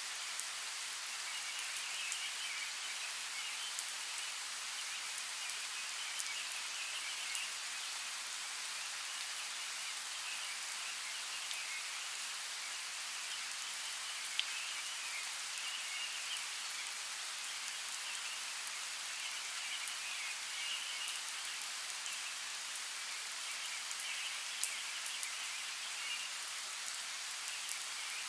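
Steady rain falling, with scattered sharp drop ticks. A faint chirring comes and goes every couple of seconds in the background.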